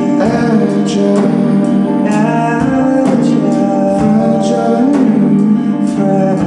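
Live band music: a singer holding a long sung note over guitar chords, with a steady beat of percussive strikes about twice a second.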